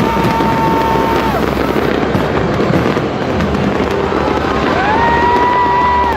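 Fireworks display crackling and popping densely and without a break. A held whistle-like tone fades out in the first second and a half, and another rises in about five seconds in and holds to the end.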